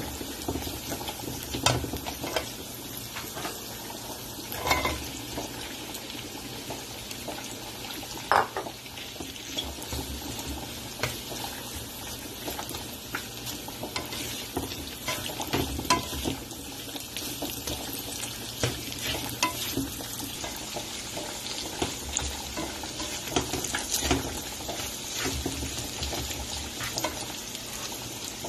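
Diced meat sizzling in a wok as a spatula stirs it, with scattered knocks and scrapes of the spatula against the pan.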